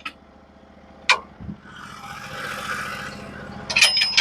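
Portable sawmill engine idling steadily while the log dogs are set: a sharp metal click about a second in, a soft scraping rush in the middle, then a quick clatter of ringing metal-on-metal clanks near the end.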